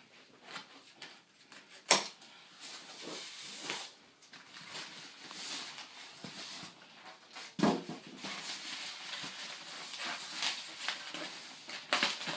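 Packaging being handled during an unboxing: irregular rustling with scattered clicks and knocks, the sharpest about two seconds in and just before eight seconds.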